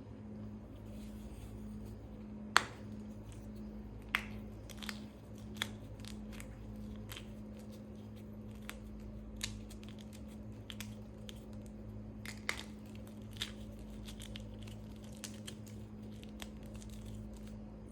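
Pressed gym chalk reforms and chalk chunks being crushed by hand, giving gritty crunching and crumbling with irregular sharp cracks, the loudest a few seconds in. A steady low hum runs underneath.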